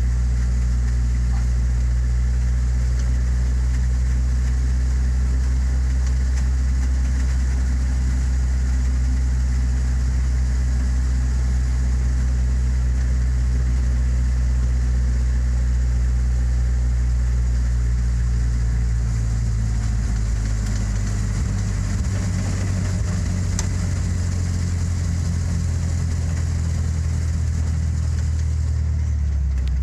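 1953 Willys truck engine running steadily. About two-thirds of the way through, its note shifts as the engine speed changes.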